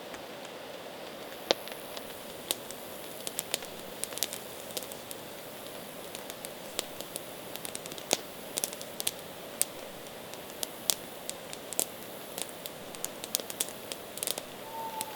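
Campfire crackling: irregular sharp pops and snaps over a steady soft hiss, with a brief short tone near the end.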